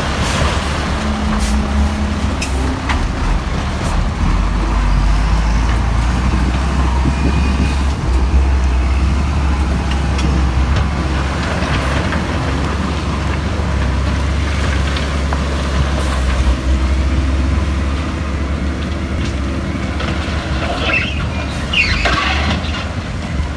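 Heavy diesel earthmoving machinery running steadily under load, with a deep continuous rumble. Near the end come a couple of short high squeals and metallic clanks.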